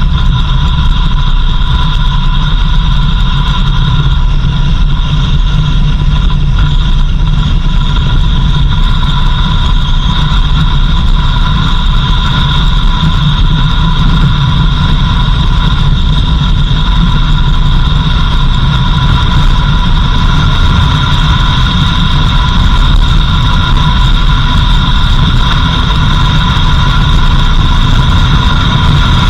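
A 4x4 vehicle driving, its engine and road noise making a steady low rumble, with a constant high whine over it.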